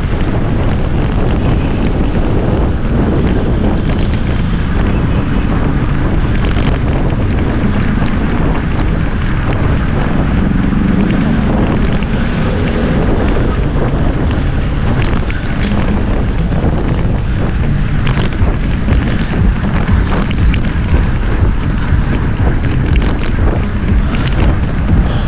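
Steady wind buffeting an action camera's microphone on a moving bicycle, a loud low rumble with no clear tones. Faint clicks come through near the end.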